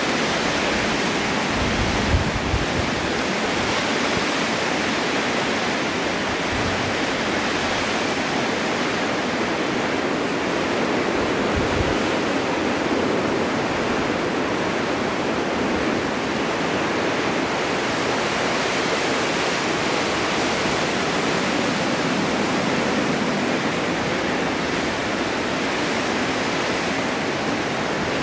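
Snowstorm wind blowing steadily, an even dense rush of noise, with brief low rumbles about two seconds in and again near twelve seconds.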